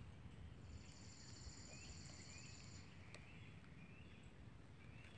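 Near silence with a faint low rumble, a faint high trill lasting about two seconds from about a second in, and a few faint bird chirps.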